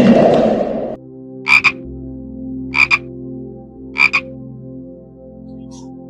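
A coarse, noisy call that cuts off about a second in. It is followed by three short croaks, each a quick double click, about a second and a quarter apart, over a steady held music drone.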